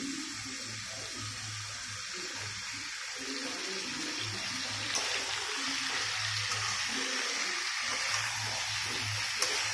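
Chicken pieces and potatoes sizzling steadily in hot mustard oil in a kadhai, with a couple of light clicks of the spatula against the pan about halfway through and near the end.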